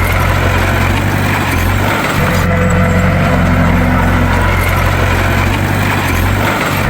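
Bulldozer's diesel engine running steadily with a low, even drone that dips briefly about two seconds in and again near the end.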